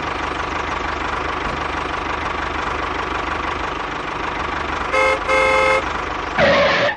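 A small tractor engine running steadily. About five seconds in a horn gives two short toots, and a louder burst of noise follows just before the sound cuts off.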